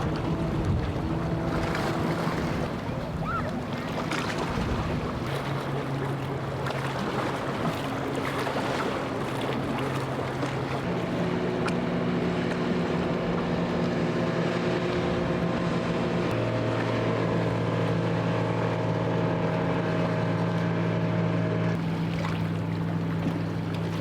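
Boat engines running with a steady hum whose tones step to new pitches a few times, over wind noise on the microphone and the wash of waves.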